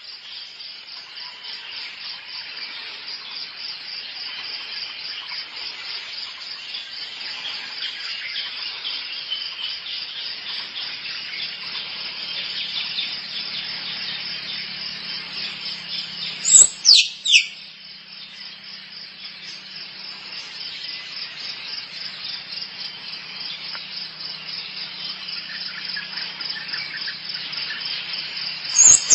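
Squirrel mating calls: a long, rapid, pulsing chatter that slowly grows louder, broken about halfway through by three loud, sharply falling squeals, with another falling squeal near the end.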